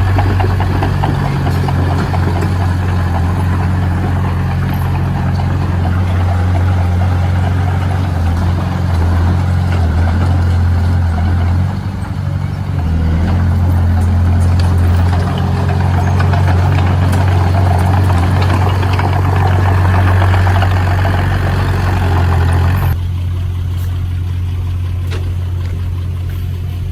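Heavy construction machine's engine running steadily with a deep drone. The higher-pitched mechanical noise drops away abruptly about 23 seconds in, leaving the low engine hum.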